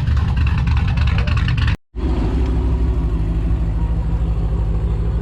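Car engine running with a steady, deep rumble. The sound drops out for an instant about two seconds in, then carries on unchanged.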